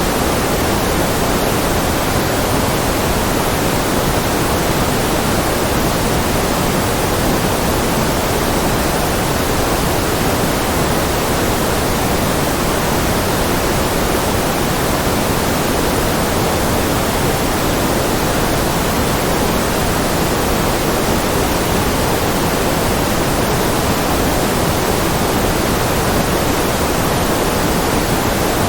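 Steady, unbroken electronic noise from a white-noise track, without variation. It is fuller in the lower middle and softer toward the top, closer to pink noise than a flat hiss.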